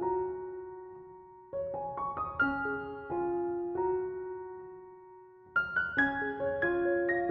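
Soft solo piano background music: gentle phrases of struck notes that fade out into two lulls, with new chords coming in about a second and a half in and again about five and a half seconds in.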